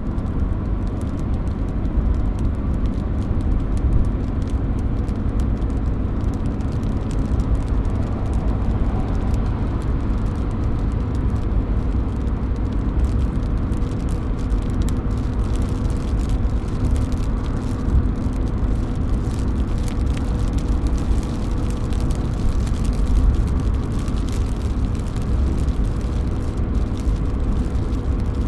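Rain dripping off a roof edge: a steady patter of many small drop ticks over a constant low rumble.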